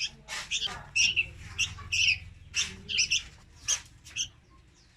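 Young red-whiskered bulbuls giving short, high chirping calls in quick succession, several a second, thinning out near the end.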